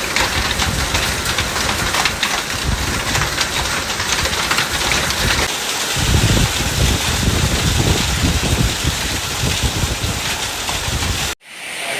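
Heavy rain with small hailstones pelting down, a dense rattle of many tiny impacts, with a low rumble growing from about halfway in. It cuts off abruptly near the end and gives way to a steadier hiss of rain.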